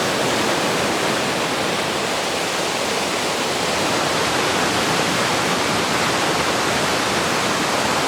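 Waterfall in the taiga, its falling water rushing steadily and evenly.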